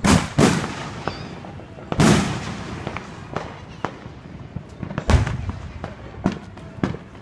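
Fireworks going off: four loud booming bursts, two in quick succession at the start, another about two seconds in and one near the middle, with scattered smaller crackling pops between them.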